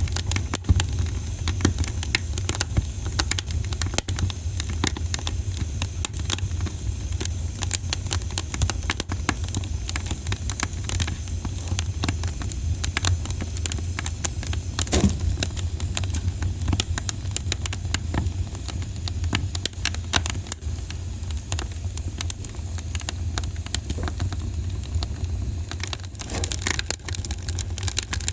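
Campfire crackling, with frequent sharp pops and snaps over a steady low rumble. One louder pop comes about halfway through, and a quick cluster of pops comes near the end.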